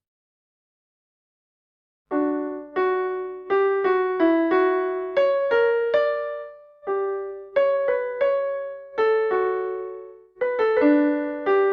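About two seconds of silence, then a simple melody on an electric piano, one struck note after another at about two a second, each note dying away.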